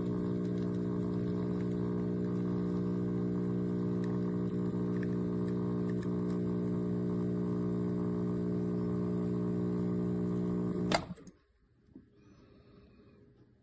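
KitchenAid KES6551 espresso machine's pump running with a steady, even hum, then shutting off with a sharp click about eleven seconds in, leaving only faint small sounds.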